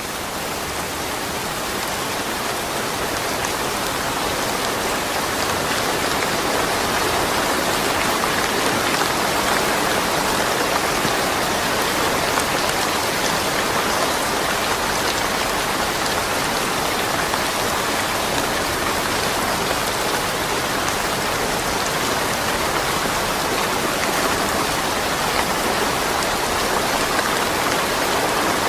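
Steady rain falling, a dense even hiss of drops with no thunder, swelling a little over the first few seconds and then holding steady.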